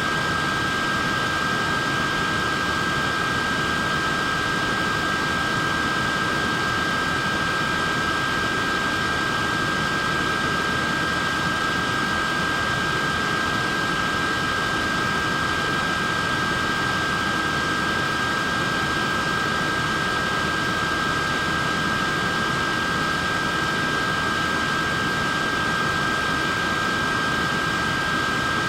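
Neck fan running steadily: an even rush of air with a high, constant whine from its small motor.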